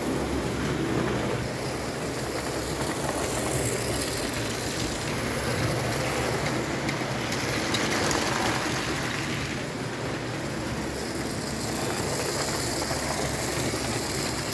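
JEP O-scale tinplate electric autorail running on tinplate track: a steady hum of its electric motor and rattle of its wheels on the rails, growing a little louder in the middle.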